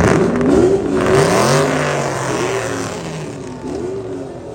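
A car engine revving loudly, its pitch climbing and falling several times, strongest in the first two seconds and then fading away.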